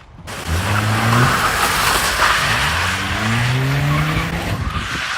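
Car engine revving, its pitch climbing over several seconds, with tyres squealing and skidding on pavement.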